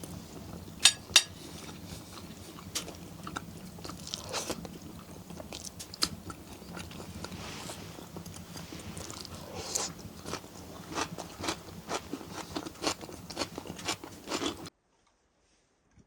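Close crunching and crackling with many sharp clicks, two loud clicks about a second in; the sound cuts off abruptly near the end.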